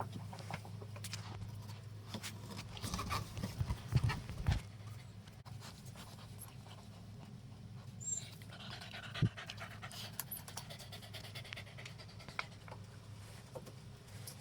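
A dog panting, over a steady low hum, with scattered clicks and a few louder knocks about four seconds in.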